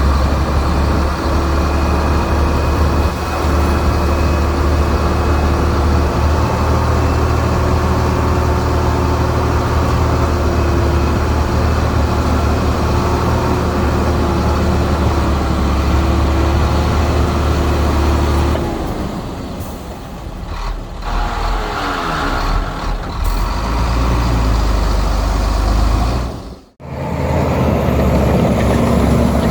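Heavy diesel earthmoving machinery engines running steadily. A little after halfway the sound drops and shifts, with a falling whine, and there is a brief sudden gap near the end before the engine noise picks up again.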